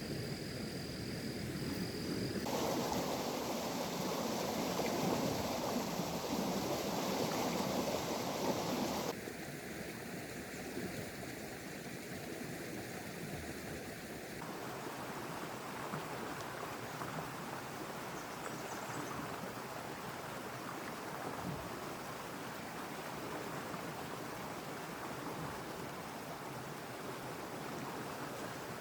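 Steady rain hiss with no pattern of drops or other sounds standing out. Its sound shifts abruptly three times, a few seconds apart in the first half, and it is loudest and fullest for several seconds after the first change.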